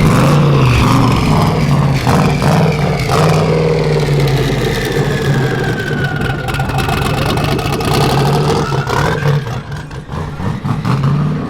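A car engine running, its pitch sinking slowly and then rising again about three-quarters of the way through.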